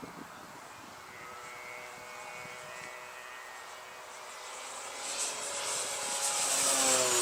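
Radio-controlled model aeroplane engine droning as the plane flies past: it grows louder over the last couple of seconds and its pitch starts to drop near the end as it goes by.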